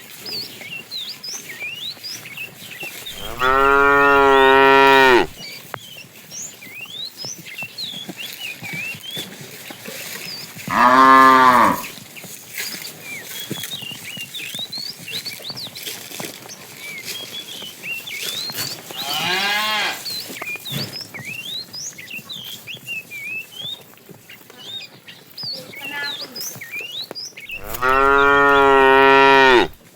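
Cows mooing: four long, drawn-out moos a few seconds apart, the third fainter than the others. Short high chirps run throughout.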